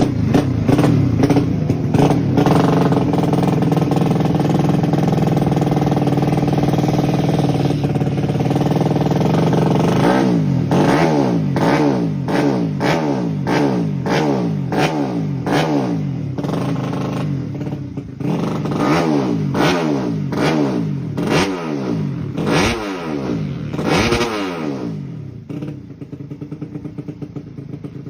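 Modified underbone motorcycle engine held at high revs, then revved up and dropped back again and again, each blip rising and falling in pitch. It falls quieter and lower about three seconds before the end.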